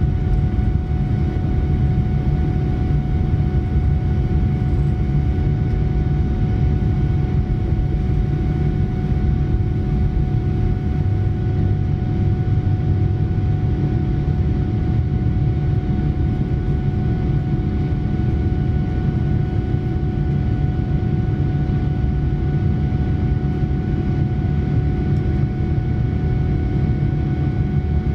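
Boeing 787-9 cabin noise: a steady loud rumble of airflow and Rolls-Royce Trent 1000 engines, with a steady engine whine over it.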